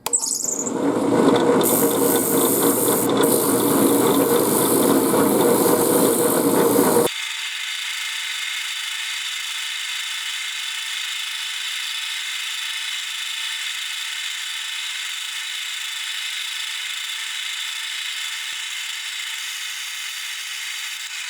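Drill press running, spinning a wooden flywheel while sandpaper is held against its rim to true it up. About seven seconds in the sound abruptly turns into a thinner, steady hum.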